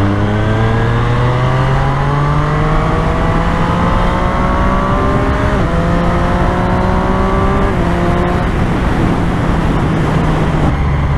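Triumph Street Triple's three-cylinder engine pulling hard under acceleration, its pitch rising steadily through the gears. It upshifts about halfway through and again about two-thirds in, then settles to a steadier note, with wind rushing past the rider.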